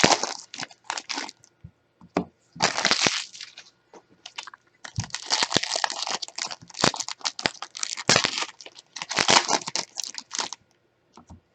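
Plastic wrapping on a box of trading cards being crinkled and torn open, in repeated rustling bursts with sharp crackles, stopping and starting several times.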